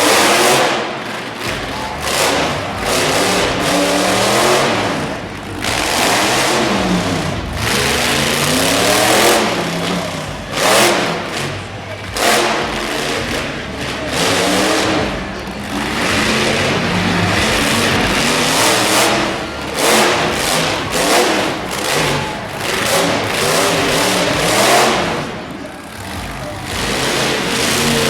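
Monster truck engine revving up and down again and again under hard throttle, rising and falling in pitch every couple of seconds.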